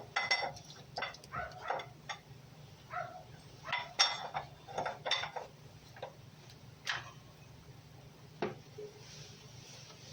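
Wrench work on a Lada Niva 21213 engine: about a dozen scattered metallic clinks and knocks of the tool against the engine's parts, a few with a short ring.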